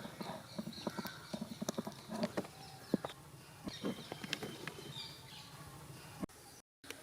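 Irregular light knocks and taps from hands and utensils working food, cutting out briefly near the end.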